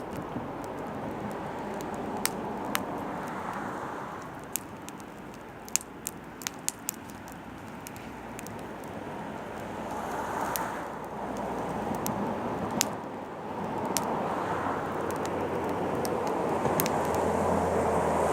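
Oak firewood burning, with sharp crackles and pops scattered irregularly over a broad rushing noise that swells and fades several times and is loudest near the end.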